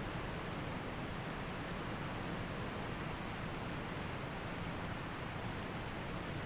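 Waterfall and rushing creek water making a steady, even roar of noise.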